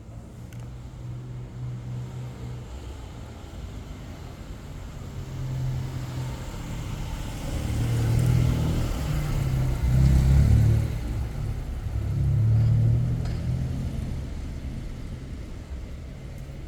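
Road traffic: motor vehicles driving past, a low engine rumble that swells to its loudest in several surges between about eight and thirteen seconds in, then fades.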